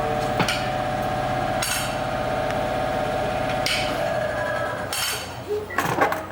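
Body-shop dent-pulling work on a car door panel: a steady machine hum with a fine rapid rattle under it, one sharp knock about half a second in, and louder irregular metal knocks and clinks near the end.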